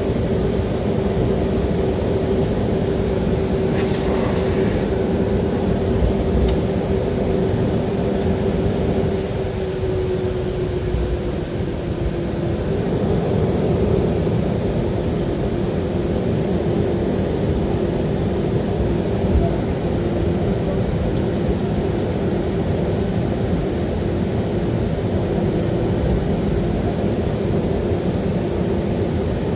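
Cabin drone of a Boeing 737-300 with its CFM56-3 engines running at low power: a steady rush with a humming tone that sags slightly about ten seconds in. A brief click comes about four seconds in.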